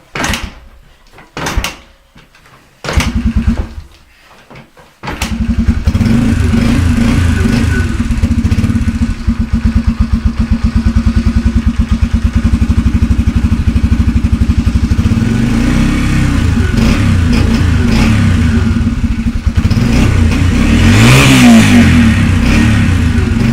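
A 125 cc motorbike engine stutters in a few short bursts, then catches about five seconds in and runs with a rapid, even beat. The throttle is blipped a few times later on, with the biggest rev near the end. The owner says it doesn't sound that well.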